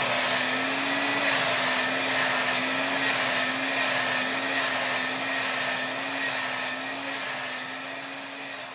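Hair dryer blowing at full power: a steady rush of air over a humming motor tone that wavers slightly. It fades out gradually in the second half.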